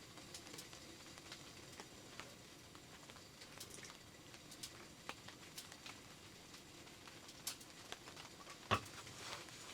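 Scattered raindrops tapping irregularly on a tent, with one louder tap near the end.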